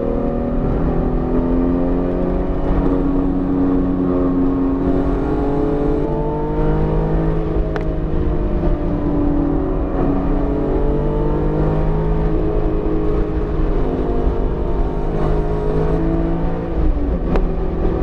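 BMW E46 M3's S54 straight-six under load on track, revs climbing and falling away several times, with a sharp drop near the end. It is a freshly built engine still in break-in, held below 7,000 rpm.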